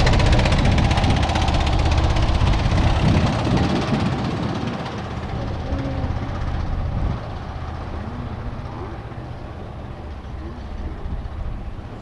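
A vehicle rumbling close by, loudest at first, then fading steadily over several seconds as it moves away.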